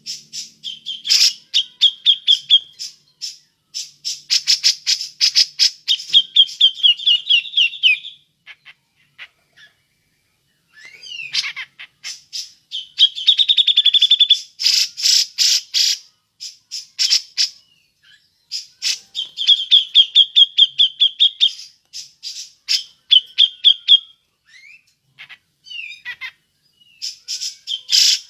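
Grey-cheeked bulbul (cucak jenggot) giving its rapid chattering 'ngepik' calls: bursts of fast, harsh notes and quick trilled phrases, repeated with short pauses and a longer break about eight seconds in.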